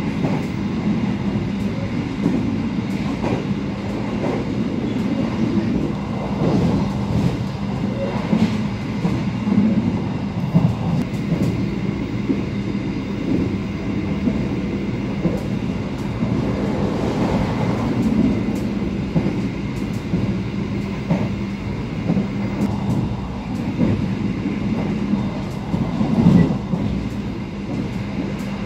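Passenger train of stainless-steel INKA coaches running at speed: steady rumble of wheels on rail with scattered clicks over the rails and a steady hum underneath.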